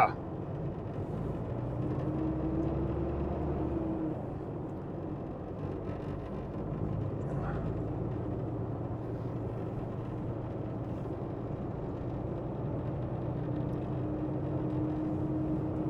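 Diesel engine of an empty semi tank truck running steadily while it drives down a mountain road, a low drone whose pitch drifts slightly, with road noise.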